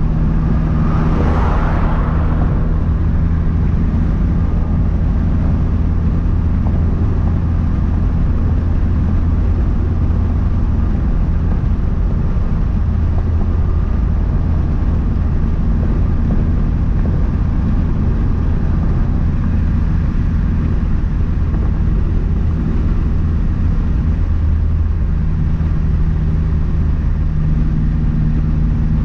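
Turbocharged 2.3-litre four-cylinder of a 2012 Mazdaspeed 3 with a big aftermarket turbo, running steadily under way, with a short hiss about a second in.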